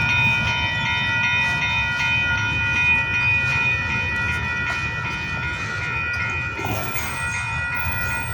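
Intermodal freight train rolling past: a steady low rumble of the cars with several high-pitched ringing tones held over it, slowly fading.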